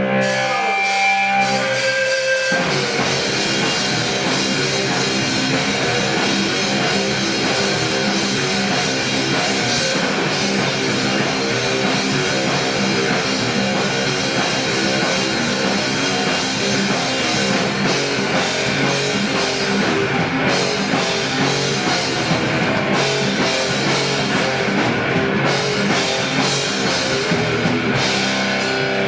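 Rock music with guitar and drum kit. After a sparse opening of a few held notes, the full band comes in about two and a half seconds in and plays on steadily.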